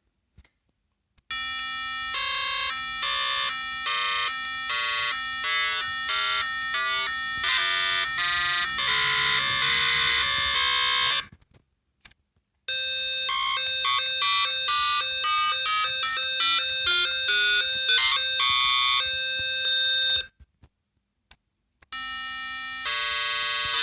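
Synthesized square waves XOR-modulated together by a computer program: a harsh, buzzy electronic tone full of overtones, stepping through rapidly changing pitches several times a second. It breaks off twice for about a second, near the middle and again past three-quarters through, with small clicks in the gaps.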